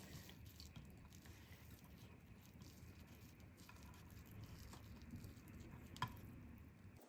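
Near silence: faint low room hum, with a single light tap about six seconds in.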